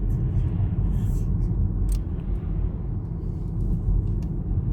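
Steady low road rumble of a moving car heard from inside the cabin, engine and tyre noise, with a few faint clicks.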